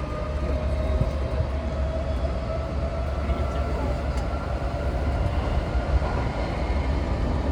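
Odakyu 4000-series electric train running between stations, heard from inside the car: a steady low rumble of wheels on rail with a faint motor whine drifting slowly in pitch.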